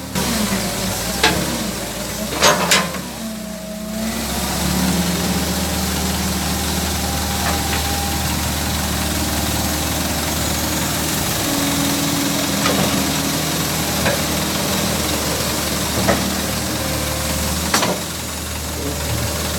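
Excavator's diesel engine running steadily, with brief whining tones and several sharp knocks scattered through.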